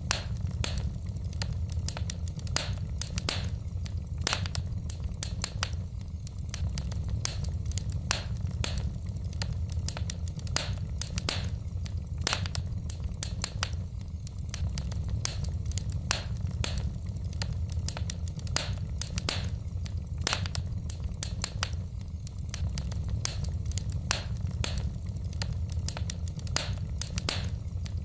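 Wood fire burning in a fireplace: logs crackling with frequent sharp pops, irregular and about two or three a second, over a steady low rumble.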